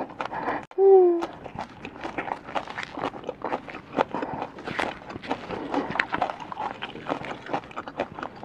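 Close-miked chewing and wet mouth smacking from a mouthful of smoked snail and raw water celery, a dense run of small clicks and crackles. A short falling hummed 'mmm' comes about a second in.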